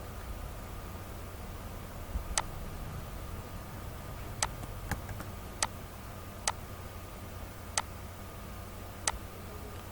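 Seven single clicks of a computer mouse, spaced about a second apart, over a low steady hum.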